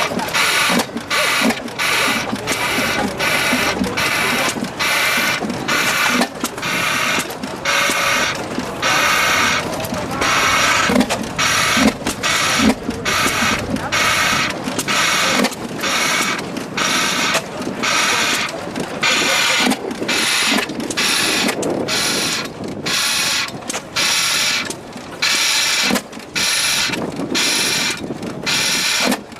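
Vintage stationary engine running with a steady, even exhaust beat, about one and a half hissing chuffs a second.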